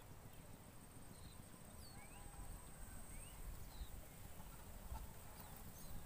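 Faint, scattered short high chirps of small birds over a low, irregular rumble with soft knocks. A thin, high steady tone runs for about three seconds near the start.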